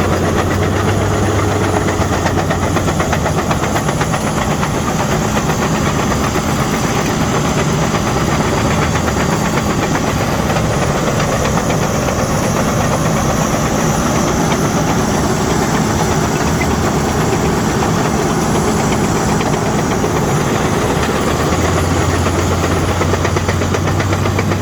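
Caterpillar D6N bulldozer's diesel engine running steadily while grading, with the continuous fine clatter of its steel tracks.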